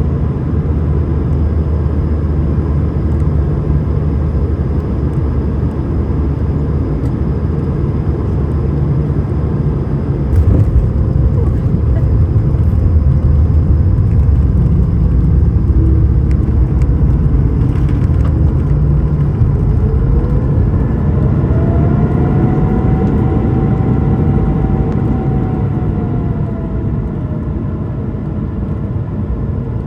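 Cabin noise inside an Airbus A220-300: a steady low rumble of the Pratt & Whitney geared turbofan engines and airflow, which gets louder about ten seconds in. Around twenty seconds in, a thin whine rises in pitch, holds for a few seconds, then falls away.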